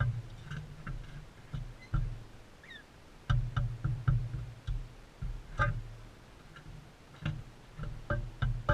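Irregular taps and knocks, like beaks pecking and feet shifting on a bird feeder close to the camera, with a short bird chirp about three seconds in.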